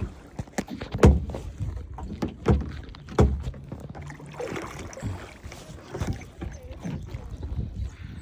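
Kayak paddling: the paddle dipping and splashing water, with a few sharp knocks.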